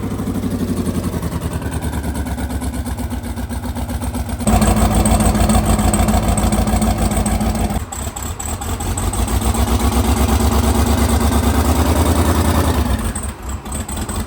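Twin-turbo LS V8 engine running at a steady idle with a rapid even pulse. It gets abruptly louder about four and a half seconds in, dips for a moment near the middle, and falls back near the end.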